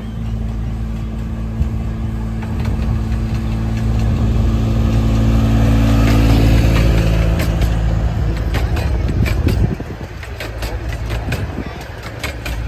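Miniature train's propane-powered engine running with a steady low hum that grows louder toward the middle and drops off sharply about ten seconds in. A quick run of clicks sounds over it in the second half.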